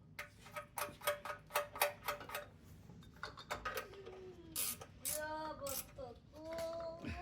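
Sharp metallic clicks and clinks, several a second, with a short ring, over the first three seconds. From about four seconds in, a young child's voice whines with wavering pitch.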